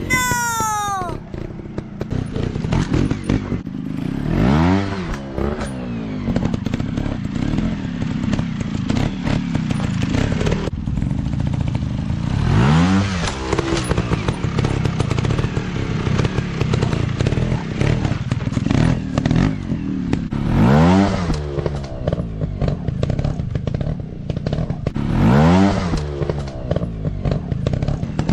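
Dirt bike engines running off-road, with the throttle repeatedly opened and closed so the revs rise and fall about four times. Right at the start one bike's pitch drops quickly as it goes by.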